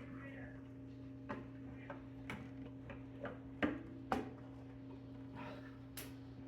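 Light clicks and taps as a motorcycle cover panel is handled and fitted into place, with two sharper knocks a little past the middle, over a steady low hum.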